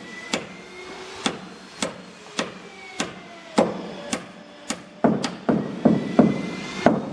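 Hammer driving nails or pegs into wooden boat timber in a steady run of strikes, about two a second. The strikes grow louder and come quicker after about five seconds.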